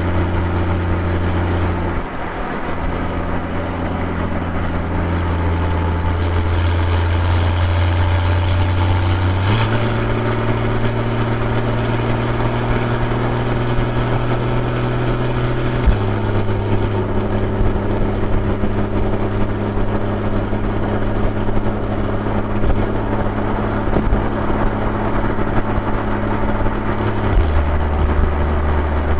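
Porsche 981 Boxster's 2.7-litre flat-six engine and exhaust droning steadily while driving. The note jumps suddenly in pitch a few times: up about a third of the way in, then down about halfway through and again near the end.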